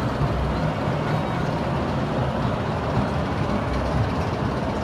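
Small amusement-park train running along its track, heard from the caboose: a steady low rumble of the cars and wheels rolling on the rails.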